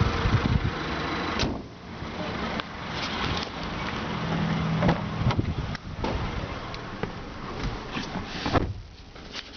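2012 Mazda3's 2.0-litre Skyactiv direct-injection petrol engine running, with an annoying tick that the owner thinks is not normal and the dealer's mechanic calls normal. Irregular knocks come over it, and the sound drops away near the end.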